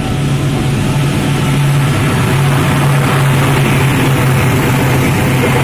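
Diesel locomotive of an empty freight train running with a steady low engine hum, growing slightly louder.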